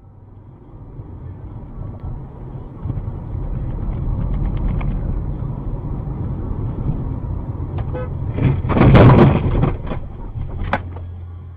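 Car engine and road noise building up and running steadily, then a loud sound lasting about a second around nine seconds in, with a few sharp clicks near it.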